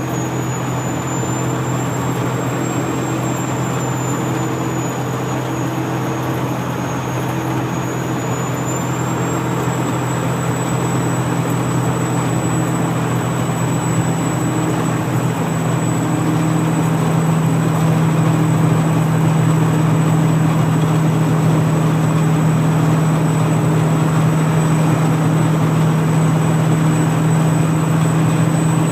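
Detroit Diesel Series 60 inline-six truck engine pulling up a hill under load, with its single turbocharger whistling high over the steady engine drone. The whistle climbs in pitch about nine seconds in and then holds, while the engine grows slightly louder.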